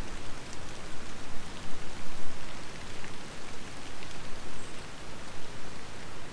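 Steady rain patter with a few single drops standing out.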